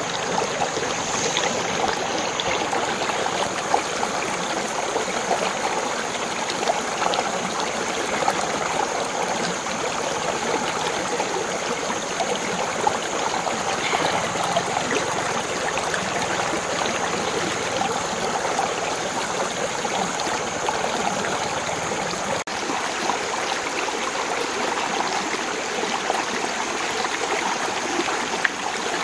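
Steady flowing water of a stream, an even rushing and trickling that keeps the same level throughout.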